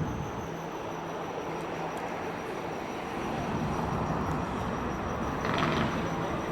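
Steady vehicle running noise, a continuous even rumble that grows a little louder in the second half.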